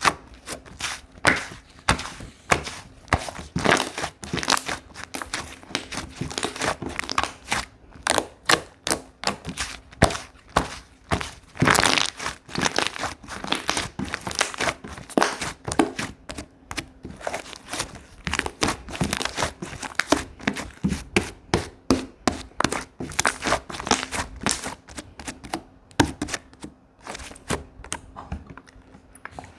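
Slime being squeezed and worked by hand, giving a dense, irregular run of sticky clicks, pops and crackles that thins out near the end.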